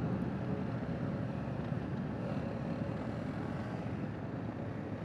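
Dual-sport motorcycle running steadily at riding speed, with a low, even wind and road noise.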